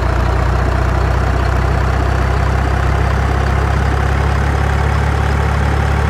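Heavy truck engine idling steadily with a deep, even, fast-pulsing drone.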